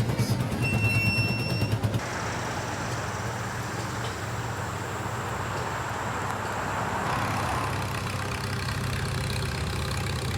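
Antique engines running at idle. The sound changes abruptly about two seconds in and again around seven seconds, as one engine gives way to another.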